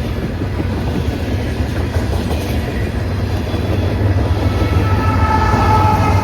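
A train passing on the main line, a loud steady low rumble that grows slightly louder. About four and a half seconds in, several steady high tones come in together on top of the rumble and hold.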